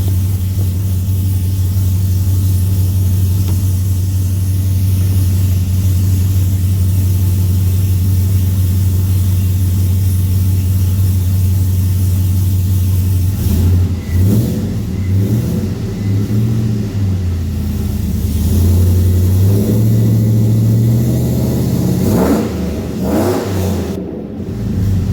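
Chevy Silverado 2500HD's 6.0-litre V8 with new headers and a true dual X-pipe exhaust, idling steadily. Roughly halfway through it is revved several times, each rev rising and falling back to idle.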